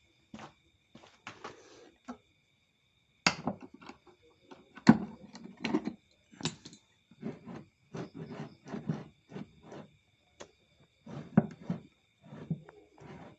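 Irregular knocks and clatter of things being handled, some sharp and loud, with a faint steady high whine underneath.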